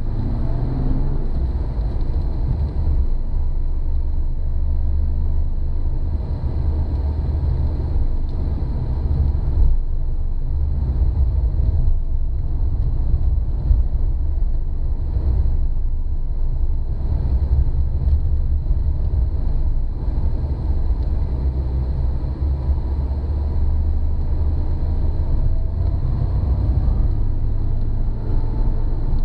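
Opel Commodore C's straight-six engine and tyre rumble heard from inside the cabin while driving: a steady low drone whose engine note rises and falls slightly.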